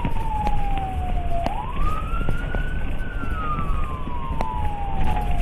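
Emergency vehicle siren in a slow wail: the pitch falls for about a second and a half, rises, then falls slowly again, over a low rumble.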